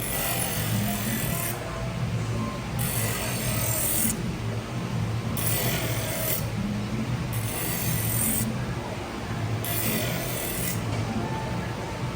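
A chef knife is drawn across a portable knife sharpener's honing wheel in five separate hissing passes of about a second each, over a steady low hum. This is the final honing stage of a 15-degree edge.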